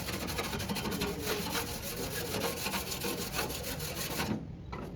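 Rapid rasping strokes of abrasive hand work on a truck cab's body, stopping abruptly about four seconds in.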